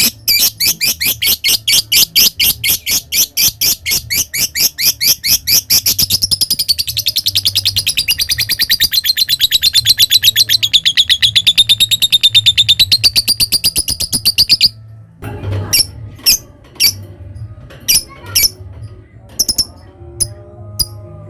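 Lovebird calling in a fast, even run of sharp chirps (the 'ngetik', or typing, call), which speeds up about six seconds in into a long unbroken chattering trill (the prized long 'ngekek'). The trill cuts off suddenly after about fifteen seconds, and a few single chirps follow.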